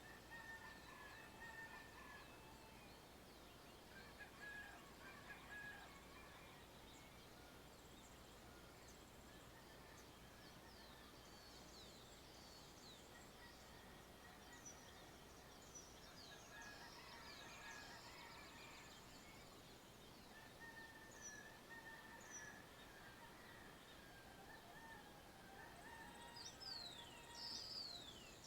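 Faint dawn chorus in the countryside: many birds chirping and calling at once, with short held notes and quick high downward-sweeping chirps, busiest near the end.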